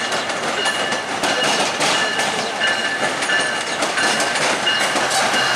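Union Pearson Express three-car diesel multiple-unit train rolling out over the yard's switches, wheels clicking over rail joints. A high ringing tone repeats about every two-thirds of a second.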